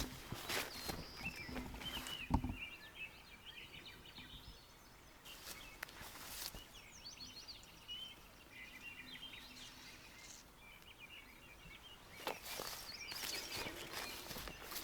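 Small birds chirping and twittering, with a few soft scuffs and rustles now and then.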